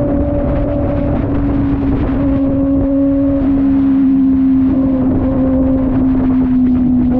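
Kove 450RR motorcycle engine running at steady revs while riding, its pitch holding nearly constant and sinking slightly, over a low rumble of wind and road noise.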